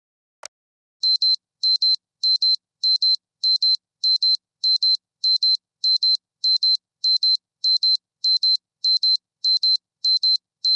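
A last clock tick from a countdown timer, then about a second in a high-pitched electronic alarm starts: rapid double beeps, like a digital alarm clock, repeating about once every 0.6 seconds, signalling that the countdown has reached zero.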